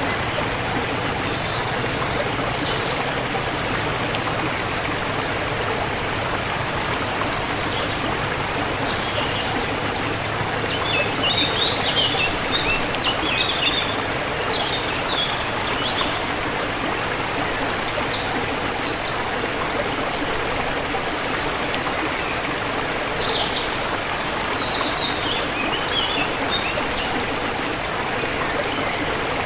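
Forest river water flowing steadily, with birds chirping on and off above it in short bursts of high calls, busiest about a third of the way in and again later.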